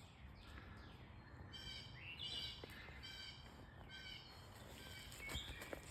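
Songbirds singing faintly: a run of short repeated chirping notes in the middle, and one more call near the end, over a low steady outdoor hum.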